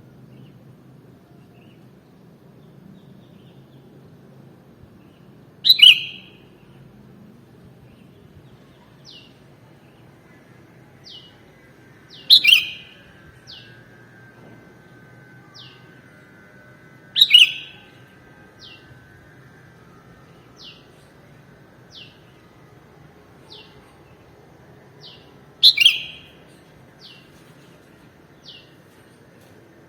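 Sooty-headed bulbul calling: four loud, sharp call notes spread several seconds apart, with fainter short downward chirps repeating between them.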